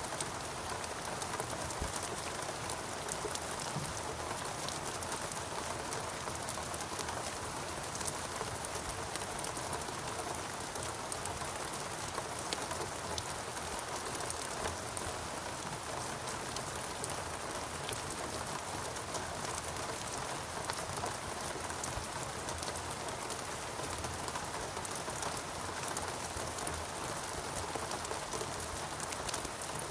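Steady rain falling, a constant hiss with many small individual drop ticks scattered through it.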